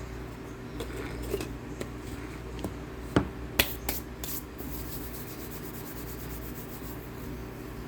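Chewing of dry cornstarch: a few sharp crunches, the loudest about three seconds in, then a quick run of fine, squeaky-gritty crunching ticks, over a steady low hum.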